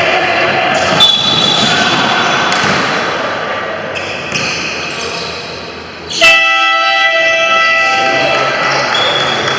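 Basketball court noise with a ball bouncing, then about six seconds in a loud horn sounds suddenly for about two seconds, the kind a gym's game horn gives to stop play.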